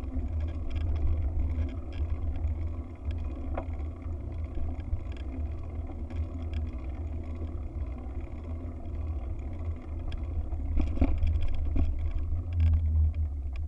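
Wind buffeting the microphone during a bike ride: a deep, low rumble that rises and falls.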